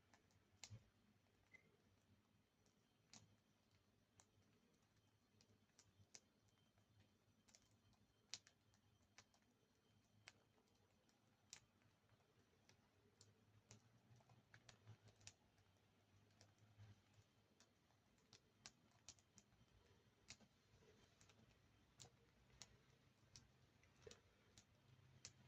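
Faint, irregular sharp clicks, roughly one or two a second: budgerigars cracking and husking seeds with their beaks.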